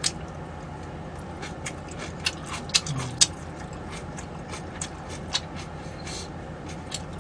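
Eating sounds close to the microphone: irregular clicks and smacks of chewing, several a second, a few sharper than the rest, over a faint steady hum.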